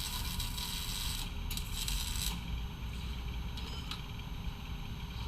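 Welder crackling and hissing in two short bursts as exhaust tips are welded on, the second stopping about two seconds in, over a low steady rumble.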